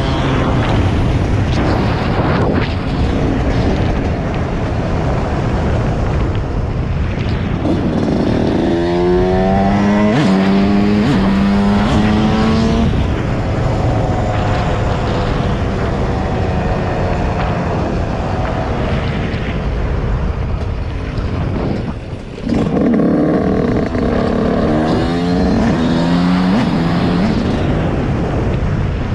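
Dirt bike engine pulling through the gears twice, its pitch climbing and dropping back with each upshift, over a steady noisy rush.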